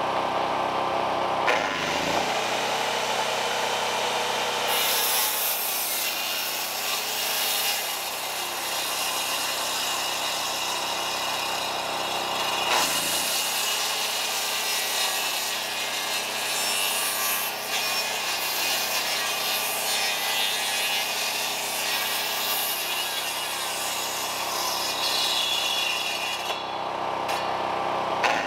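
Gas chainsaw cutting timber, the engine running steadily under load, with its pitch dipping briefly about two seconds in and again about halfway through.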